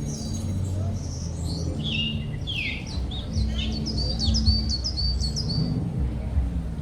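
Several wild birds chirping and calling, with a quick run of repeated high notes in the middle, over a steady low rumble.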